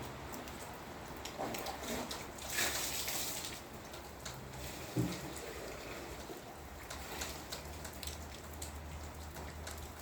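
Rain falling, with many scattered drops ticking on a surface. There is a brief louder rush of hiss about two and a half seconds in and a single thump about five seconds in.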